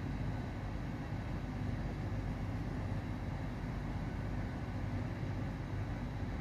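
GWR Class 800 bi-mode train running on its underfloor diesel engines, a steady low hum and rumble, as it moves slowly forward alongside the platform.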